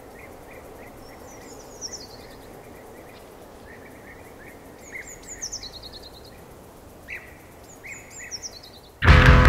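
Wild birds singing over a steady background hiss: repeated short chirps and, three times, a descending twittering phrase. About nine seconds in, loud rock music cuts in abruptly.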